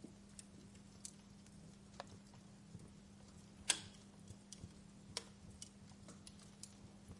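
Wood fire in a fireplace crackling: irregular faint snaps and clicks over a soft hiss, with one sharper pop a little past halfway and another about five seconds in. A steady low hum runs underneath.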